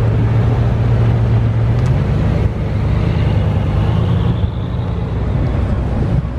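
A car engine running with a deep, steady exhaust drone. Its pitch steps up about two and a half seconds in and it eases off a little near the end.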